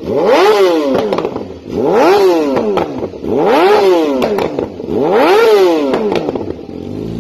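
Yamaha YZF-R6 inline-four revved through a custom titanium header and Akrapovic slip-on exhaust: four sharp throttle blips, each rising and falling, with popping as the revs drop, then settling back to idle near the end.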